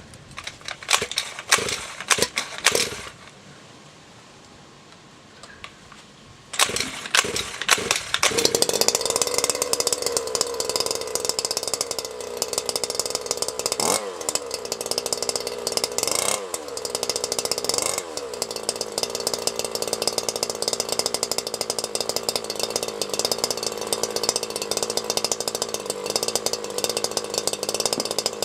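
Zenoah 26cc two-stroke engine of a large-scale RC car being started: brief sputters about a second in, then it catches at about six and a half seconds and runs. It is revved quickly three times near the middle, then settles into a steady run, starting easily and running cleanly.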